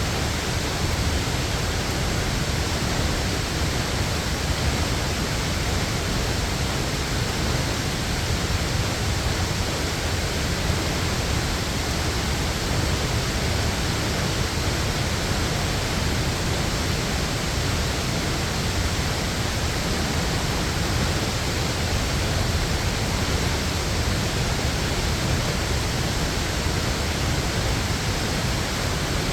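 Waterfall: falling water rushing in a constant, even wash of noise with no pauses or changes.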